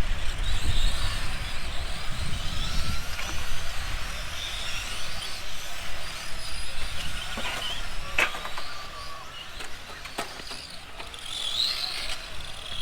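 Electric motors of radio-controlled racing trucks whining, the pitch rising and falling as they accelerate and brake around the track, with a couple of sharp knocks about eight and ten seconds in.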